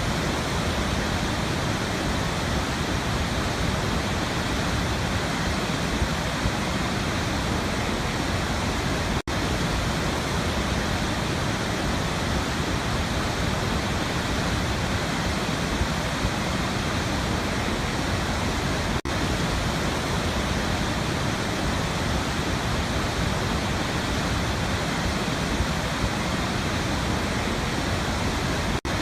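Waterfall rushing: a steady, dense roar of falling water with no change in level, broken by three momentary dropouts about ten seconds apart.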